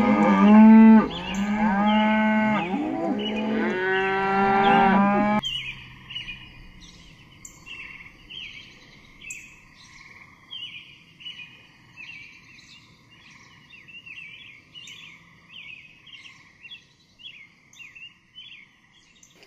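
A cow mooing loudly in several drawn-out calls for about five seconds, cutting off abruptly. Then small birds chirp and twitter quietly for the rest of the time.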